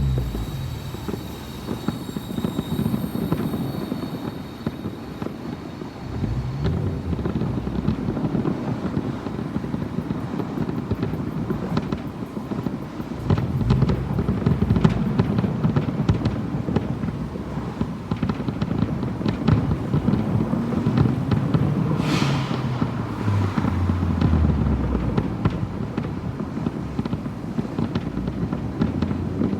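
Fireworks display: a dense, continuous run of booming bursts and crackling, a little quieter in the first few seconds.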